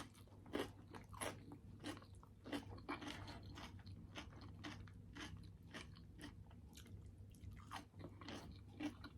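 A person chewing a mouthful of food close to the microphone, faint, with short chews repeating steadily about twice a second over a low steady hum.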